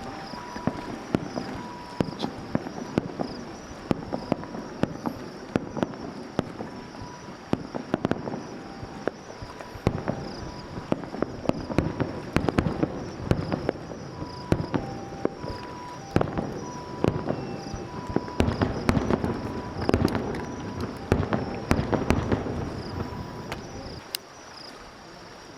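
Fireworks exploding in quick succession, a dense run of sharp bangs and crackles that grows thickest in the middle and thins out near the end.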